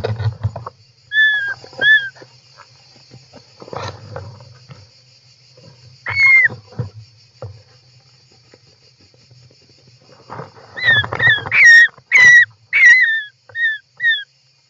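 European rollers calling inside their nest box: short down-curving calls, two about a second in, one near the middle and a quick run of about eight near the end. Bumps and scuffling of the birds moving in the box come with them, over a faint steady high hiss.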